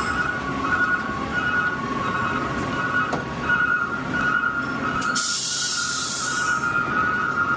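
Garbage truck running with a steady high-pitched squeal of two tones, and a hiss lasting about a second and a half starting about five seconds in.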